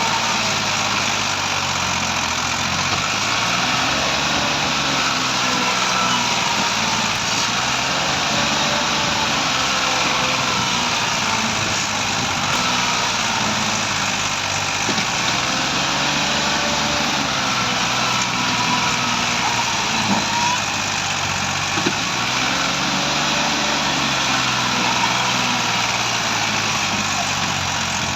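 Massey Ferguson 260 tractor's diesel engine running steadily, its pitch rising and falling in slow swells about every six or seven seconds.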